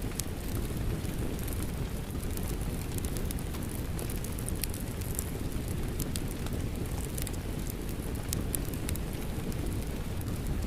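Fireplace crackling with many sharp, scattered pops, blended with steady rain and a constant low rumble.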